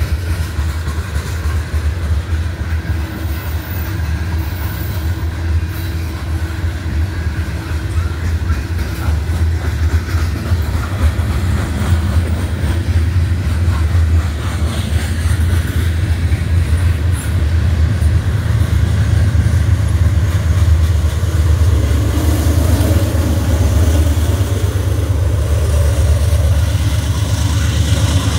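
BNSF freight train rolling through a grade crossing: a steady low rumble of railcars and wheels on the rail. It grows louder in the second half as a locomotive comes up to the crossing.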